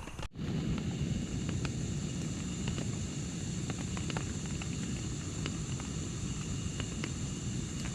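Steady heavy rain on a tarp: a dense low patter with many separate sharp drop impacts. It cuts out for a moment just after the start, then resumes.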